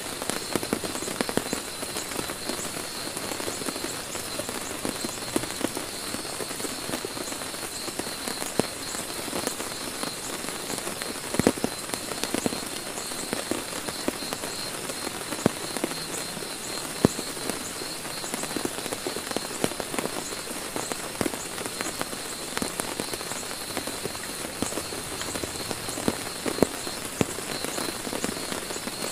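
Heavy rain pattering steadily on a tent, a dense hiss of drops with many single louder drops ticking out of it.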